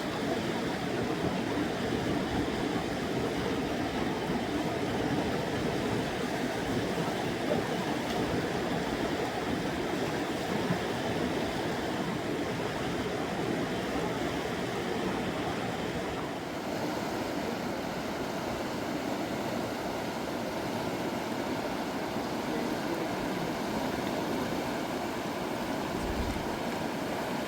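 Fast, swollen river rushing steadily, a continuous even roar of water.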